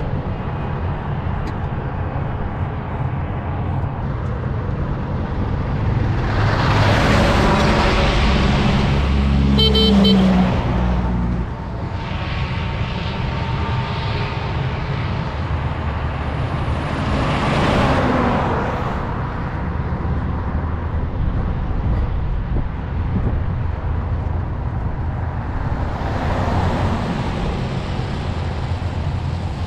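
Road traffic: three motor vehicles overtaking close by, each swelling up and fading away, and a short car horn honk about ten seconds in, over a steady low rumble.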